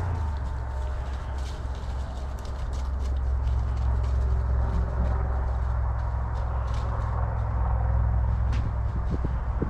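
Wind rumbling steadily on the microphone outdoors, with scattered clicks and rustles of footsteps moving through dry grass.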